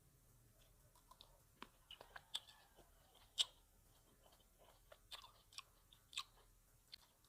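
Close-up chewing of grapes: irregular wet clicks and pops as the grapes are bitten and mashed in the mouth, the loudest about three and a half seconds in.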